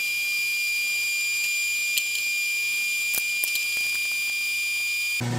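A steady high-pitched electronic tone, like a continuous beep, holding one pitch throughout, with a few faint ticks about two and three seconds in.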